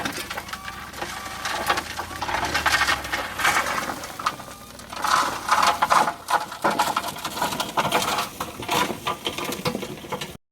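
Crushed stone crunching and rattling in a dense run of clicks and scrapes, cutting off suddenly near the end.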